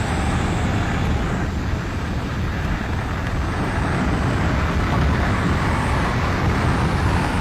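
Airplane engine and wind noise in flight: a steady low rumble with no breaks.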